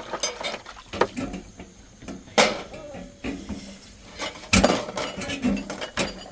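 Dishes and metal utensils being handled: several sharp clinks and knocks, with faint ringing between them.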